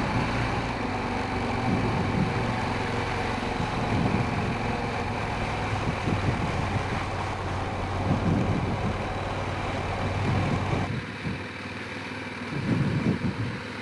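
Honda Rincon 650 ATV's single-cylinder four-stroke engine running, then cutting off abruptly about eleven seconds in.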